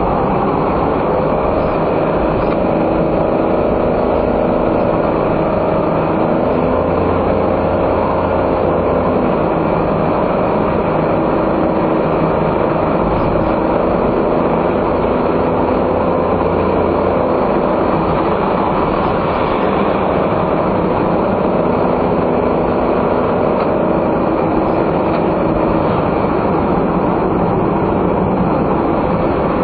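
Steady road and tyre noise with the hum of a non-turbo 660 cc kei car engine under way, heard from inside the car; the engine's faint tones drift gently up and down in pitch.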